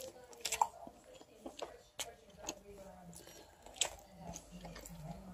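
A person chewing a mouthful of soft, syrup-soaked pancake, with scattered faint wet mouth clicks and smacks. About four seconds in comes a low, wavering hummed "mmm".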